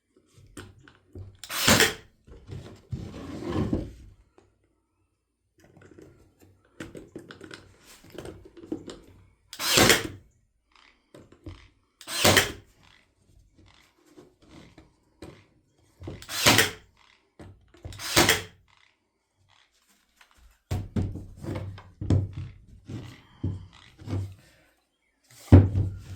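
Sharp single knocks on wood, five loud ones spread irregularly, amid quieter clatter and handling of small wooden pieces during birdhouse assembly.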